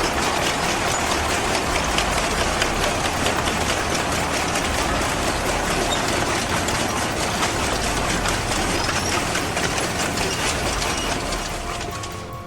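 Tractor engine running with a dense, continuous metallic clatter and rattle, fading away near the end.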